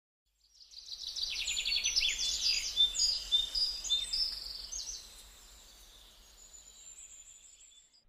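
Songbirds singing: a dense run of rapid, high chirps and trills starting about half a second in, thinning to faint high calls after about five seconds.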